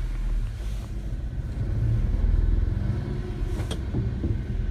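1992 Suzuki Carry kei truck's small three-cylinder engine running at low revs as the truck backs out. The engine rises a little about two seconds in, then eases off. There is a short click near the end.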